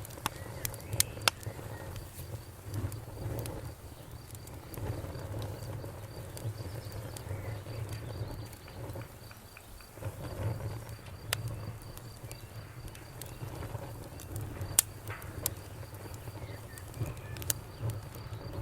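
Bonfire crackling, with scattered sharp pops over a low rumble of flame, while crickets chirp in a steady, fast-pulsing high trill.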